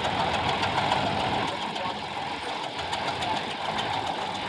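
Antique tractor engine running steadily with a rapid, even knocking beat.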